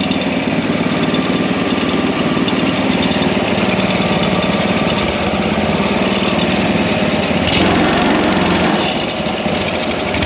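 Predator 212 single-cylinder four-stroke engine running steadily, a little louder about three quarters of the way through.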